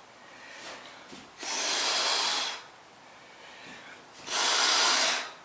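Hair dryer without a diffuser blowing in two short blasts of rushing air, each about a second long and nearly three seconds apart, pushing poured acrylic paint across a tile.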